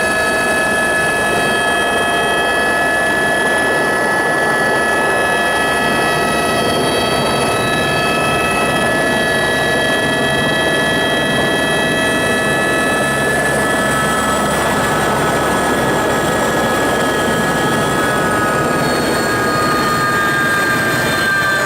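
Helicopter in flight: steady, loud engine and rotor noise with several high whining tones on top, their pitch drifting slightly in the second half.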